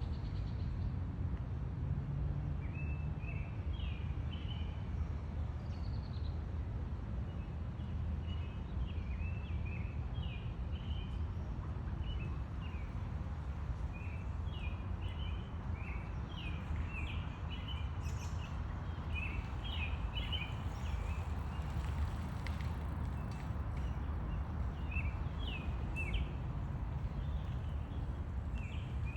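Birds chirping, short calls repeated again and again, over a steady low rumble.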